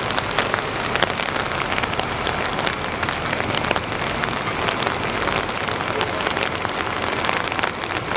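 Steady rain pattering, with many sharp drop ticks, over the low steady hum of the tow trucks' engines running.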